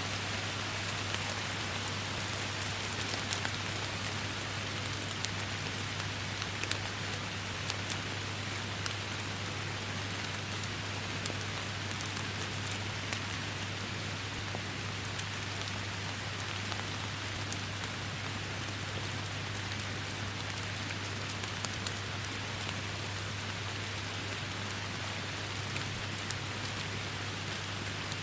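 Steady rain falling in a forest, with many separate drops ticking through the even hiss and a steady low hum underneath.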